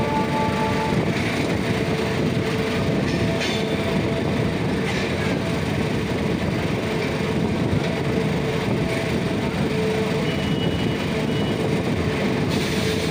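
MEMU passenger train running along the line, heard from its open doorway: a steady rumble and rattle of the wheels on the rails, with a faint steady hum.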